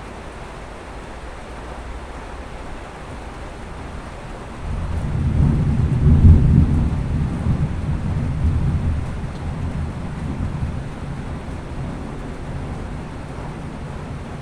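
A thunderclap rumbles in about four seconds in, loudest a couple of seconds later, then rolls off slowly over several seconds. Under it is a steady hiss of rain.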